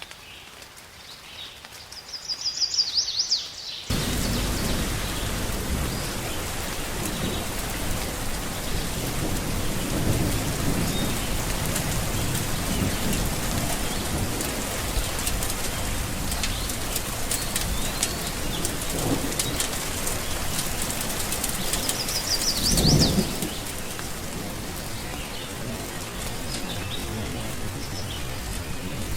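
Steady heavy rain that comes in abruptly about four seconds in, with low rumbles of thunder, the loudest one about two-thirds of the way through. A bird chirps once just before the rain begins and again during the loudest rumble.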